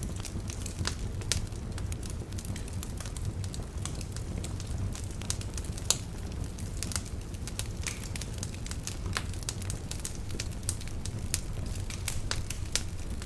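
Wood fire burning in a fireplace: a steady low rumble of flame with irregular crackles and pops from the burning logs, one sharper pop about halfway through.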